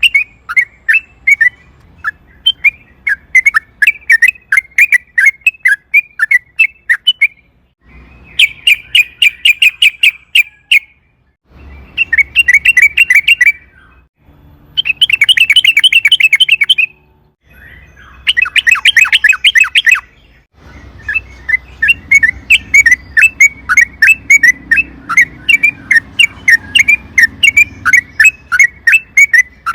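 Sooty-headed bulbul (trucukan) singing long strings of rapid, repeated chirping notes. The song breaks off in several short pauses and includes a few faster, denser trills.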